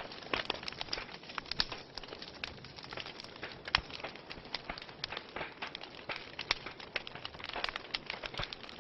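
Wood fire in a fireplace crackling: irregular sharp pops and snaps over a steady hiss, with one louder pop a little under four seconds in.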